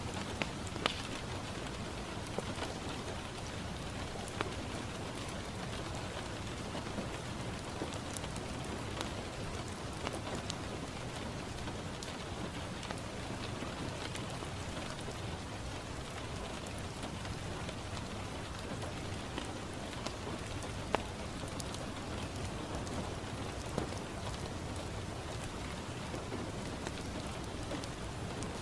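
Steady rain falling on a window, an even hiss, with a wood fire crackling in a fireplace: scattered sharp pops, one louder than the rest past the middle.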